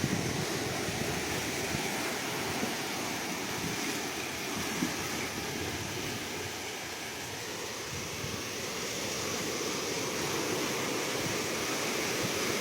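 Ocean waves washing onto the shore, a steady rushing surf that swells a little toward the end.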